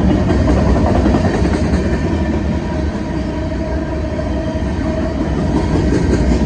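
New York & Atlantic diesel freight train passing close by, a steady loud rumble of locomotive and rolling wheels on the rails.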